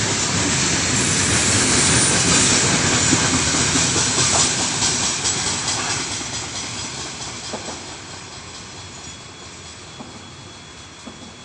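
Freight wagons of a heavy 80-car train rolling past fast, wheels clattering over the rail joints; the noise fades away through the second half as the train moves off.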